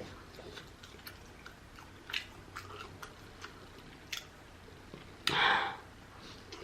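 Close-miked chewing of rotisserie chicken: soft wet mouth clicks and smacks, with a short, louder rush of air through the mouth about five seconds in.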